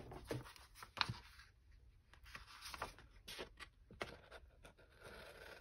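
Scissors cutting paper around a printed image: a faint, irregular series of snips and paper rustles.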